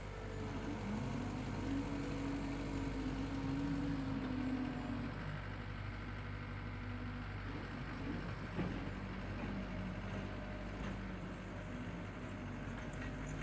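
The engine of the machine driving a power rake, running steadily as it works the ground. Its note rises about a second in, holds, and then drops back a little about five seconds in.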